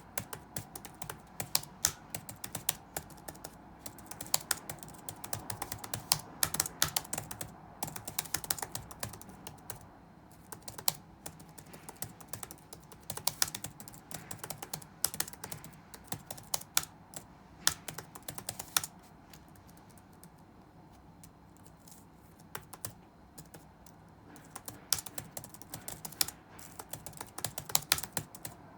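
Computer keyboard typing in quick irregular runs of keystrokes, thinning to only a few scattered keystrokes for about five seconds past the middle before the runs pick up again.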